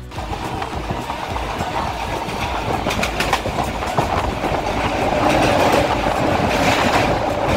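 Electric local train running at speed, heard from an open carriage window: a steady rolling noise of wheels on rail with some clattering over rail joints while it crosses a river bridge, growing a little louder in the second half.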